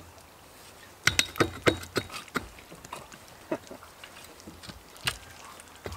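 A series of sharp knocks and clanks: a quick run of five or six about a second in, then a few scattered strikes.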